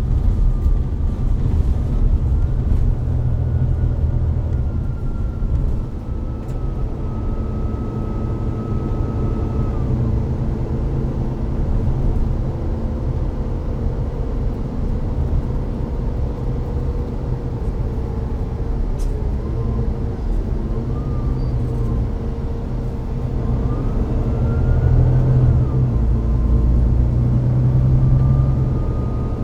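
Volvo B9TL bus's D9B diesel engine and Voith DIWA automatic gearbox running under way, with a steady low drone and a high whine that comes and goes. The engine grows louder for a few seconds near the end, as under acceleration.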